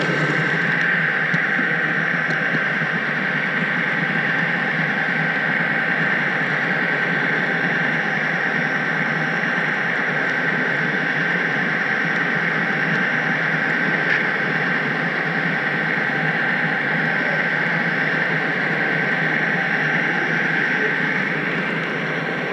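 Steady rolling noise of an HO-scale model train running on its track, picked up close by a camera riding in the train, with a thin steady high tone through it.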